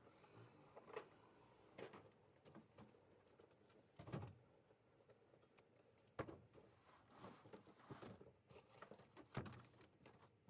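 Scattered light knocks and clicks with rustling, as of things being handled and packed during a house move; a longer rustle runs from about six to eight and a half seconds in.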